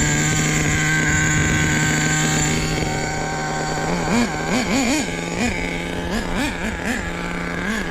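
Small nitro RC truck engine running at a steady high pitch, then about halfway through being blipped on and off the throttle in quick repeated revs. The engine is tuned very rich ("so fat").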